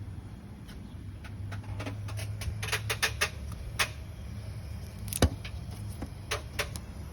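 A 1985 Volvo 244's engine idling with a steady low hum, under a scatter of sharp clicks and knocks at irregular intervals, the loudest about five seconds in.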